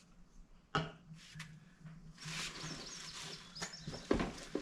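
Plastic parts and packaging being handled: a sharp click, a few lighter clicks, then a rustling, squeaky rub for about a second and a half, and two knocks near the end.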